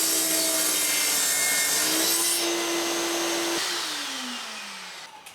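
Electric saw making a bevel cut through a wooden threshold beam, the motor running at a steady pitch under the cutting noise. About three and a half seconds in, the motor is switched off and spins down with a falling whine that fades away.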